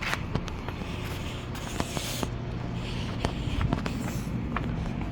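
Irregular footsteps of someone walking, over a steady low hum of a vehicle engine.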